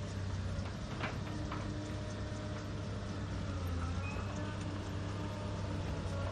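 Diesel engine of a heavy earthmoving machine running steadily, with a few sharp metallic clanks in the first second and a half.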